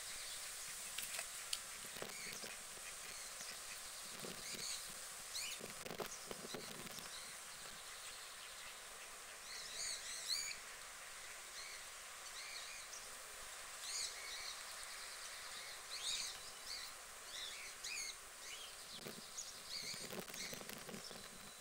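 Outdoor ambience: small birds chirping in short bursts several times over a steady background hiss, with a few soft knocks in the first seven seconds.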